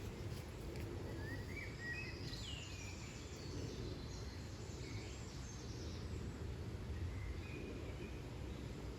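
Birds chirping and calling, a scatter of short chirps and quick rising and falling notes from about one to seven seconds in, over a steady low rushing background.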